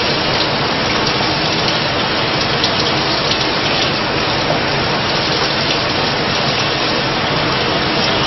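Cold tap water running steadily over a pressure cooker's lid, cooling it to bring the pressure down before it can be opened.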